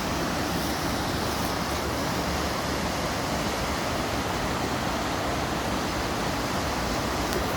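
Steady rush of a river in flood, running high and fast after days of heavy rain.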